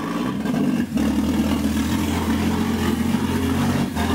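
Toyota 1JZ-GTE VVTi inline-six engine idling steadily and loud.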